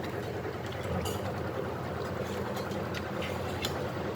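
A spoon stirring chicken pieces in a cooking pot, with a few light scrapes and clicks over a steady low rumble.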